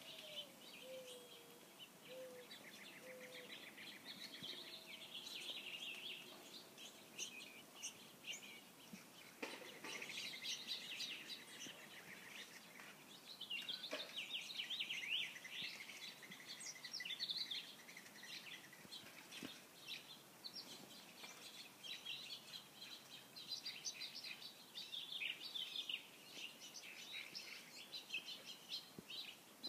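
Many small birds chirping and twittering at once, overlapping without a break, with a couple of soft knocks about a third and halfway through.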